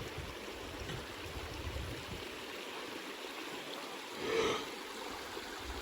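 Steady rush of flowing water, with one short pitched sound about four seconds in.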